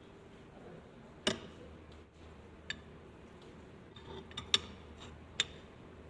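About five sharp clicks and knocks, spaced irregularly, with the loudest two close together about four and a half seconds in, over a low steady hum.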